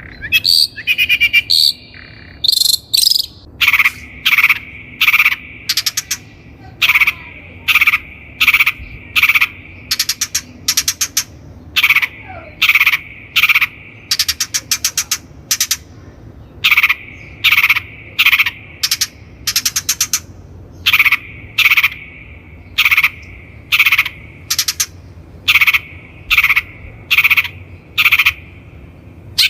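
Long-tailed shrike calling: a few toned notes at first, then a long run of harsh calls repeated about once a second, with a brief pause around the middle.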